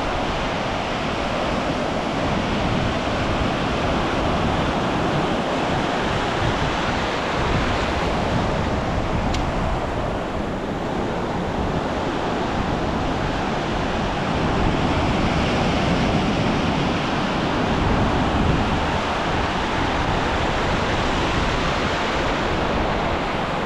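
Ocean surf washing onto a beach: a steady, even rush of breaking waves, with wind rumbling on the microphone.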